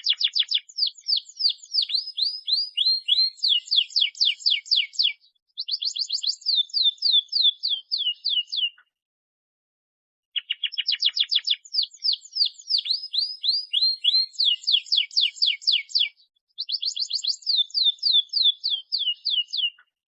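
Domestic canary singing fast trills of rapidly repeated, sweeping chirp notes in several phrases. After a gap of about a second and a half the same song sequence starts again, as in a looped recording.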